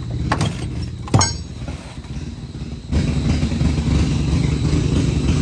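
A vehicle engine running with a low rumble, with a couple of sharp knocks in the first second and a half. The rumble gets suddenly louder about three seconds in and then runs steadily.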